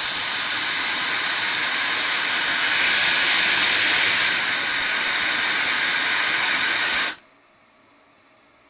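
Compact ionic hair dryer running, a steady rush of air that cuts off suddenly about seven seconds in.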